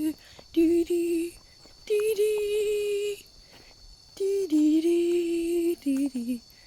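A young voice humming a wordless tune in four short phrases of held, steady notes. Beneath it, a constant high insect drone.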